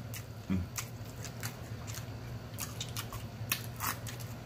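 Close-miked chewing and lip-smacking while eating hot wings: irregular wet clicks from the mouth, with a brief hummed "mm" about half a second in. A steady low hum runs underneath.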